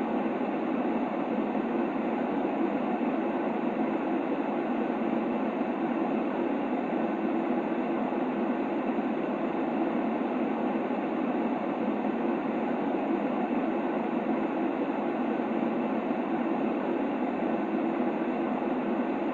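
Steady, unchanging sleep-aid white noise with a deep, muffled tone, much like the rumble inside a train carriage. It holds the same level throughout, with no rhythm or breaks.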